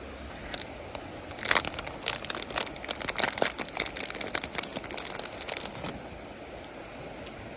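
Dense crackling and crinkling for about four and a half seconds, as of something being crumpled or handled, over a steady outdoor hiss.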